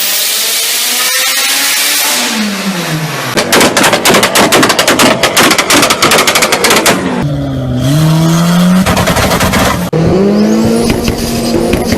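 Modified big-turbo Mitsubishi Lancer Evolution with a turbocharged 4G63 four-cylinder: a high hiss at the start, then the revs fall. A rapid string of loud pops and bangs follows for about three and a half seconds, then the engine revs up and down again.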